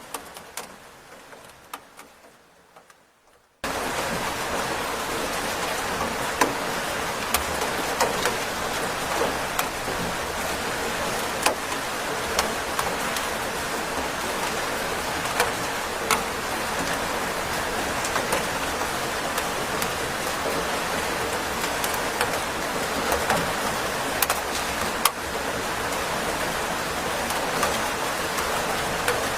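Rain falling steadily, a dense even hiss with scattered sharper drop strikes. For the first few seconds it fades away to a few isolated drips, then comes back in full all at once about three and a half seconds in.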